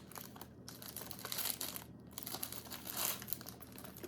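Plastic snack wrapper crinkling as it is handled and torn open, in irregular rustling swells, louder about a second and a half in and again near three seconds.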